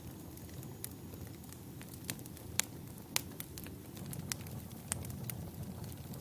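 Wood fire burning in a fireplace: a steady low rumble of flames with irregular sharp crackles and pops from the logs. The loudest snaps come a little before and after the three-second mark.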